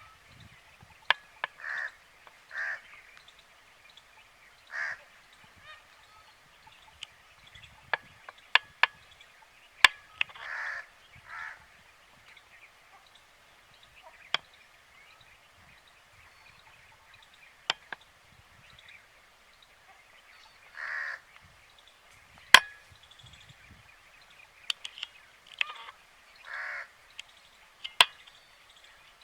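Birds calling: short, harsh calls repeated at irregular intervals, with sharp clicks in between, the loudest click about two-thirds of the way through.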